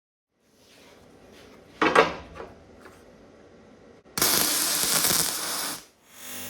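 A few knocks and clinks of hard objects, the loudest about two seconds in. Then a loud, even rushing noise runs for about a second and a half and stops abruptly.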